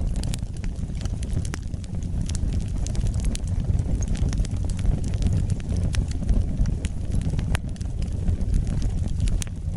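Wood fire burning: a steady low rumble of flames with frequent small, sharp crackles and pops at irregular intervals.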